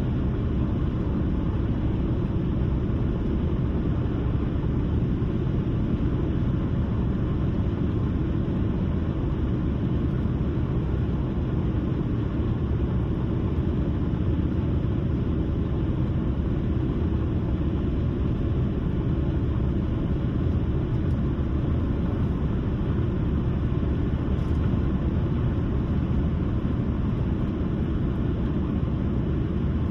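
Steady road noise of a car driving at cruising speed: an even, low rumble of tyres and engine.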